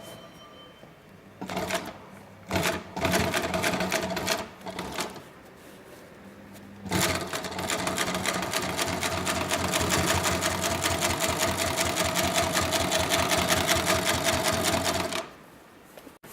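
Industrial triple-feed post-bed twin-needle upholstery sewing machine stitching. It makes a few short bursts of rapid stitches in the first five seconds, then a continuous run of fast, even stitching over a steady motor whine for about eight seconds, and stops near the end.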